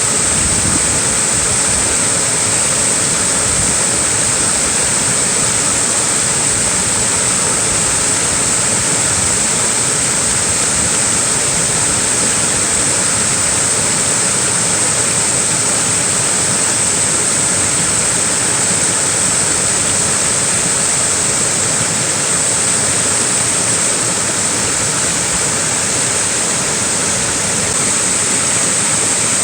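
Small waterfall: a steady, unbroken rush of falling and splashing water.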